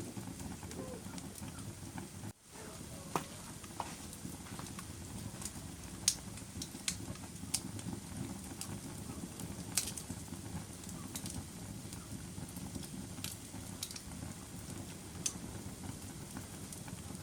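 Wood fire burning in a fireplace: a steady low rumble of flames with scattered sharp crackles and pops, several a few seconds apart. The sound drops out briefly about two and a half seconds in.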